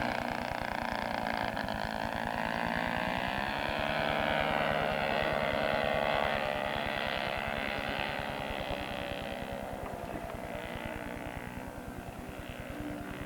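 Model aircraft engines of a radio-controlled Douglas Dakota running in flight. The note rises and grows louder a few seconds in, then fades after about eight seconds as the model moves away.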